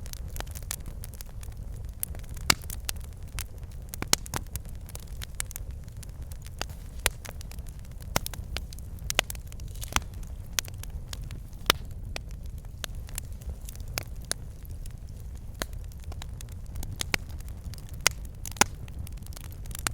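Wood fire burning in a fireplace: a steady low roar of flames with logs crackling and popping in sharp, irregular snaps, a few louder pops among them.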